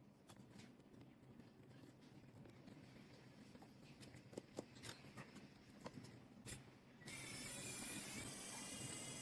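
Faint scattered clicks and taps of small tools working on a phone's internals. About seven seconds in, a steady hiss with several high, even tones starts abruptly and stays.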